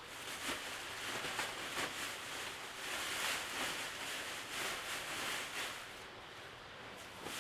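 Rain falling steadily, with scattered light taps of drops.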